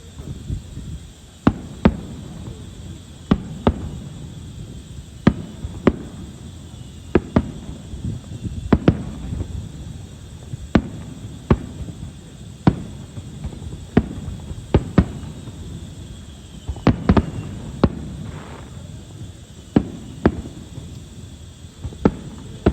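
Fireworks shells bursting one after another, a sharp bang every second or two with a low rumble between them, several in quick succession about seventeen seconds in.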